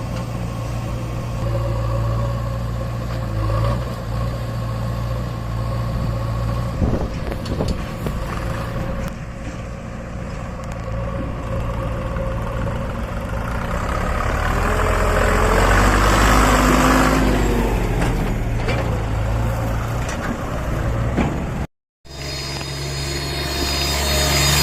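Deutz-Fahr tractor's diesel engine running as it pulls a loaded trolley, growing louder about halfway through and easing off again. The sound cuts off abruptly near the end, then picks up again with the engine sounding slightly different.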